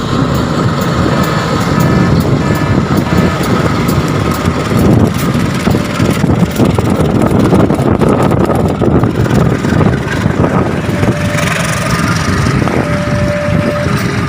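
Train passing close by: a loud, continuous rumble of wheels on the rails, with a quick run of sharp clacks in the middle.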